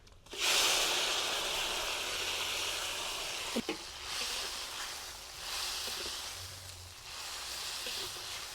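Food tipped into hot oil in a cooking pot, sizzling loudly all at once about half a second in, then a steady sizzle that slowly eases, with a few light knocks of a spoon against the pot.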